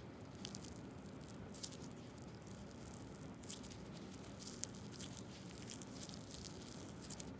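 Homemade slime being squeezed and kneaded by hand, giving faint, irregular wet clicks and small pops.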